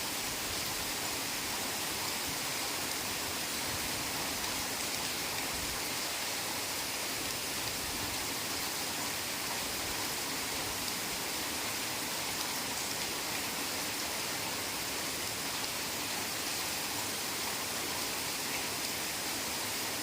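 Heavy rain falling steadily: an even, unbroken hiss with no distinct drops or thunder.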